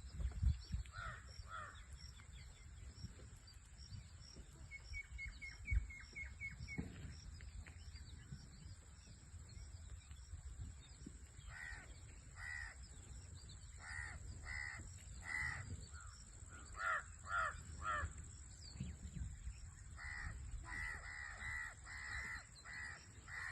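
Crows cawing again and again, the caws coming in quick runs in the second half. A short series of quick, high chirps from another bird comes about five seconds in. A steady thin high tone and a low rumble run underneath.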